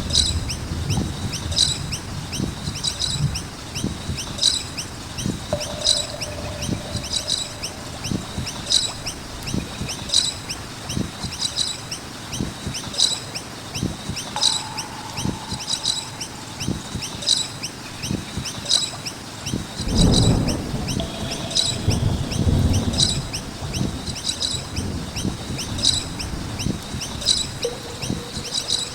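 Noisy miners calling: a short high call repeated at an even beat, about one and a half times a second, over many fainter chirps. Low rumbles and knocks come and go underneath, loudest about two-thirds of the way through.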